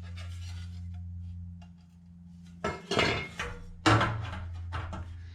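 Sheet metal clanking and rattling as it is handled against metal, in two clusters about three and four seconds in, over a steady low hum.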